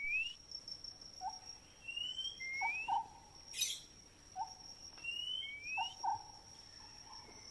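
A caged songbird whistling short rising notes, mostly in pairs about every three seconds, with short lower chirps between them. A steady high-pitched tone runs underneath.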